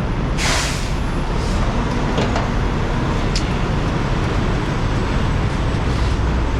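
Semi-truck running with a steady low rumble. A short hiss comes about half a second in, and a few light clicks follow.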